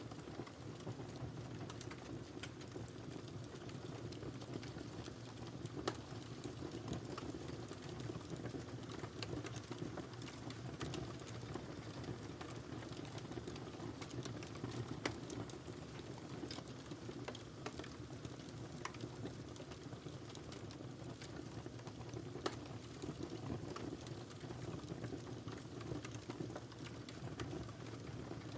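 Wood fire burning in a fireplace: a steady low rush with frequent small crackles and a few sharper pops.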